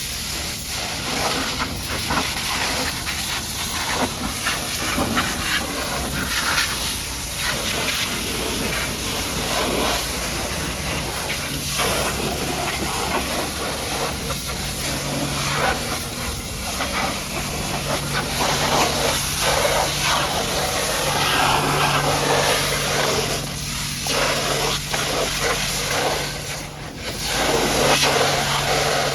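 High-pressure water jet spraying and blasting mud off a truck, a continuous hissing spray that surges and fades as the jet moves over the surface. A steady low hum runs under it from about a third of the way in.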